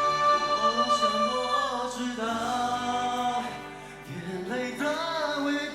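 Pop ballad sung live at a concert: voices holding long notes and sliding between pitches, with a brief drop in loudness about four seconds in.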